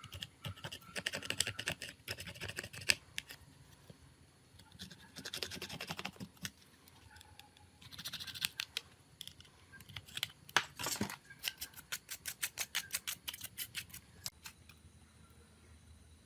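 Hand work on a small mobile phone's parts: several short bursts of scratching or scrubbing, each a second or two long, mixed with sharp clicks. Near the end comes a quick run of about eight even clicks a second.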